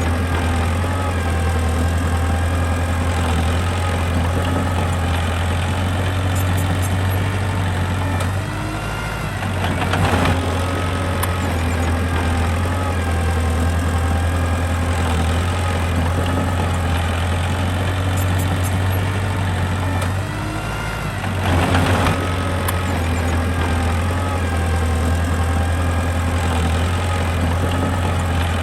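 Small bulldozer's diesel engine running steadily, dipping briefly about 9 and 21 seconds in, each dip followed by a short louder rise.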